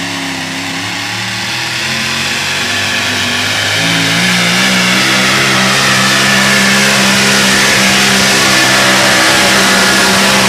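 Engine of a super modified four-wheel-drive pulling truck running hard. It revs up about four seconds in, then holds at high revs while growing steadily louder.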